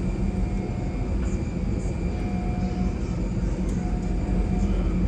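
Jet airliner engines running, a steady rumble heavy in the low end.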